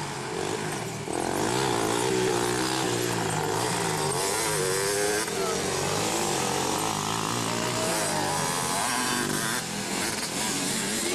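Engines of several racing three-wheelers and quads revving up and down together, their pitches rising and falling over one another as they accelerate and back off.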